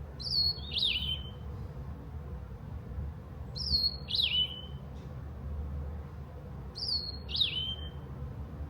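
A bird singing the same short two-note phrase three times, about every three seconds: a high note, then a quick bending note that slides down. A steady low background hum runs underneath.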